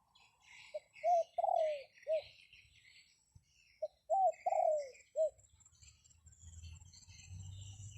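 A dove cooing twice, each phrase four notes: a short note, a rising-and-falling note, a long falling note, then a short note. Small birds chirp at a higher pitch, and a low wind rumble on the microphone builds over the last couple of seconds.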